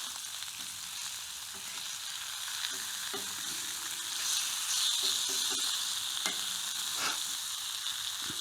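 Bacon sizzling in its grease on a fire-pit griddle ring over a wood fire: a steady frying hiss that swells about four seconds in, with a few light clicks.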